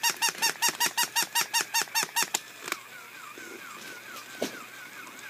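Battery-operated walking toy dog's mechanism squeaking in a fast even rhythm, about seven squeaks a second, as it walks. The squeaking stops about two and a half seconds in, leaving a faint wavering whine and a single click.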